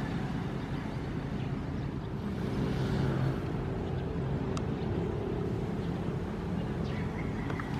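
Ocean surf washing steadily with a deep rumble, one wave swelling a little louder about three seconds in.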